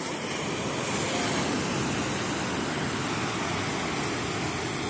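Ocean surf: a wave rushing in, loudest about a second in, then easing off as the water washes back.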